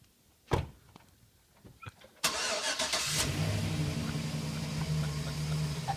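A sharp thump about half a second in, like a door shutting. About two seconds in, a four-door pickup truck's engine cranks and catches, then settles into a steady idle.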